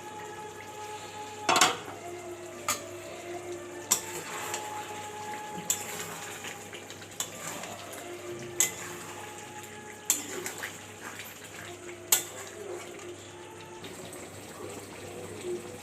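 Metal utensils and cookware clinking and clanking against pots and dishes in a kitchen: a string of sharp clanks, the loudest about one and a half seconds in.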